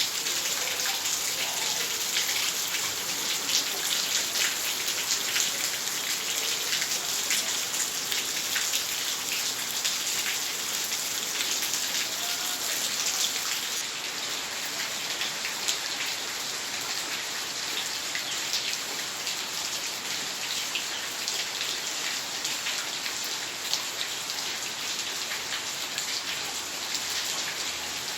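Heavy rain falling steadily, a dense hiss full of fine drop impacts, easing a little about halfway through.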